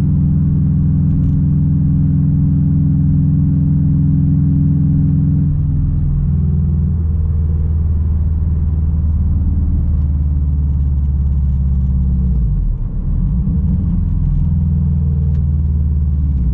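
Straight-piped 2006 Subaru WRX STI's turbocharged flat-four exhaust running at steady revs, then dropping in steps to a lower, steady note about six seconds in, with a brief wobble in the rumble around halfway through.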